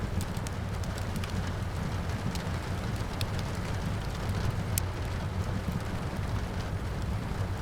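Fireplace crackling with many sharp irregular pops over a steady hiss and rumble of rain.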